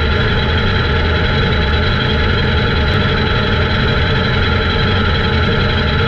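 Race car engines running steadily, with a low, even drone and no rise or fall in pitch.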